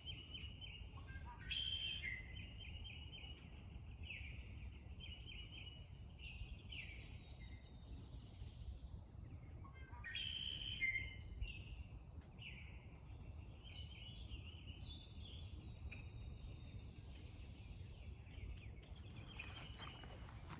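Birds chirping and calling outdoors in repeated short phrases, a little louder about two seconds in and again about ten seconds in, with a thin steady high tone for several seconds in the first half, over a low steady background rumble.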